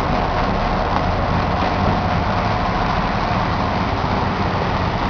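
Two CN diesel-electric locomotives running steadily as they back slowly down onto their train, a low, even engine hum.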